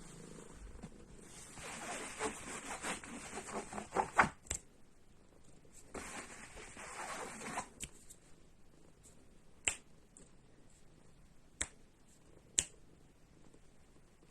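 A kitten purring faintly at first, then two stretches of scratchy rustling a couple of seconds each, followed by three sharp clicks spaced a second or two apart.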